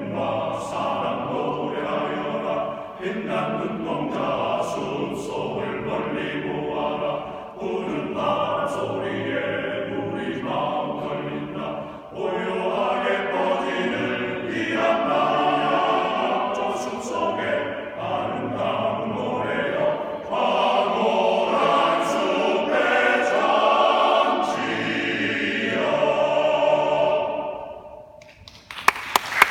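Choir singing in harmony, holding long notes that change every second or two, and fading out near the end.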